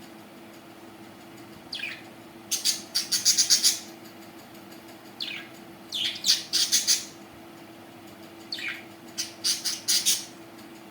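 Budgerigars calling in three bouts a few seconds apart, each opening with a falling squeak and followed by about a second of rapid, harsh chirps. A faint steady hum runs underneath.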